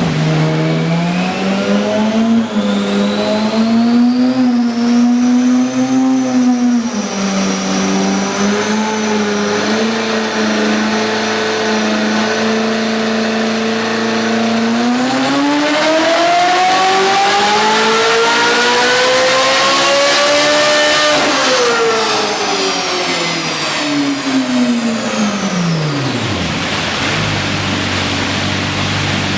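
Ferrari 458 Speciale's V8 through an aftermarket Fi valvetronic exhaust, running at fairly steady revs with small wavers, then climbing smoothly for about six seconds to a high-pitched peak and falling away to a low rumble near the end.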